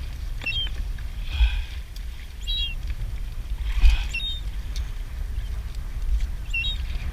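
Low wind rumble on the microphone and water moving around a kayak, with a bird calling in short high chirps four times and two louder sloshes of water.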